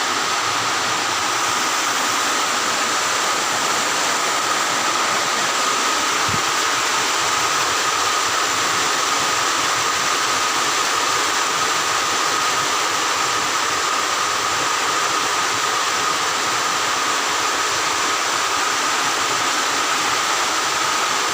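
Heavy rain falling in a steady, even hiss, with a thin steady tone running alongside it.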